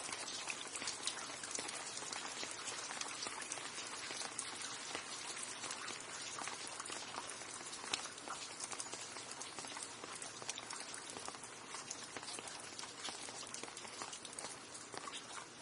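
Steady rain, a dense patter of many small drops striking a surface.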